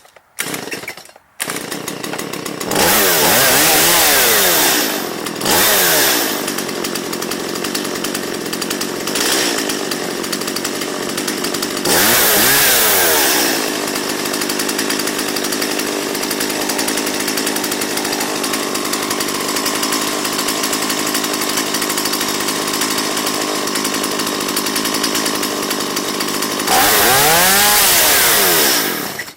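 Stihl MS170 two-stroke chainsaw engine running at idle and revved on the throttle four times, each time rising in pitch and falling back. It cuts out near the end.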